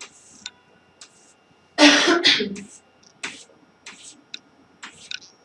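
A person clears their throat once, about two seconds in. A few faint clicks are scattered around it.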